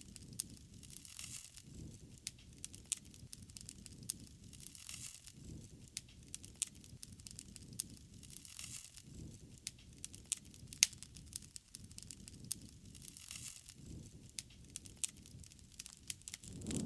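Wood fire burning, crackling with irregular sharp pops and snaps, one louder pop near the middle, over a soft low rush that swells and fades.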